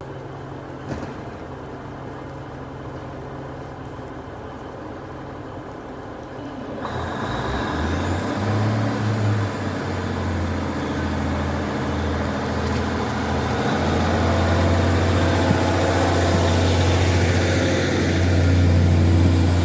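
A train at a station platform: a low, steady engine drone sets in about seven seconds in and grows louder toward the end, with a faint high whine rising above it.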